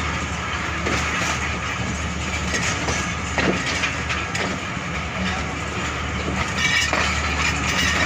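Passenger train running on the track: a steady rumble with a few scattered clicks of the wheels over the rails.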